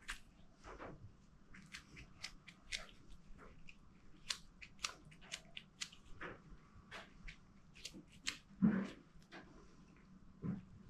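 Grease being pushed by hand into a motorcycle steering head roller bearing: a stream of soft, irregular sticky clicks and squelches as the bearing is worked and turned, with a louder bump near the end.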